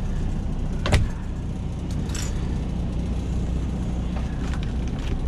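Semi truck's diesel engine idling steadily, heard inside the cab, with a sharp knock about a second in.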